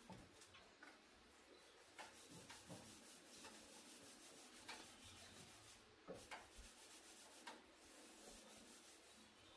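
Faint rubbing or scraping on a surface, with scattered light clicks.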